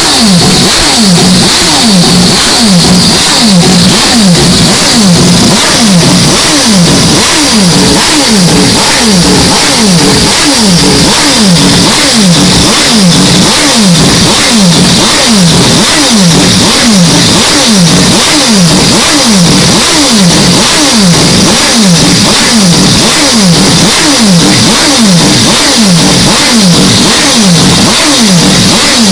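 Mazda 767B's four-rotor Wankel engine, heavily amplified to the point of distortion, its pitch dropping over and over a little more than once a second in a steady, even cycle.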